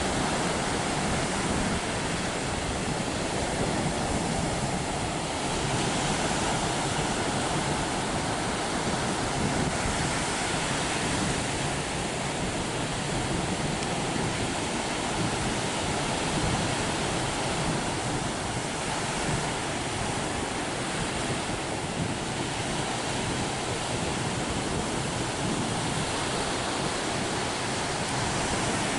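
Steady rushing of surf breaking on a beach, with wind.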